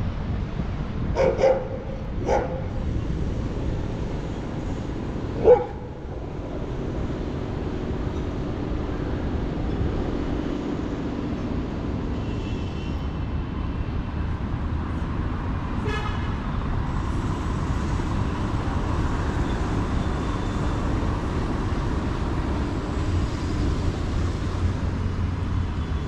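City street ambience: steady traffic rumble with a few short, sharp sounds in the first six seconds, the loudest about five seconds in.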